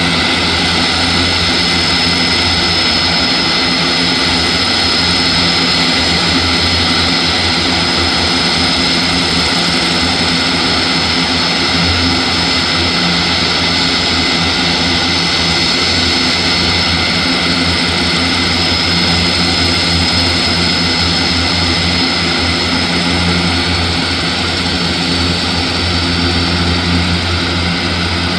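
Airbus A400M's four TP400 turboprop engines running loud and steady, a dense propeller roar with a constant high whine over it.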